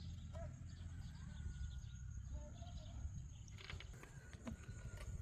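Faint rural farmyard ambience: a few short chicken or bird calls over a steady low rumble, with a series of sharp clicks or taps in the second half.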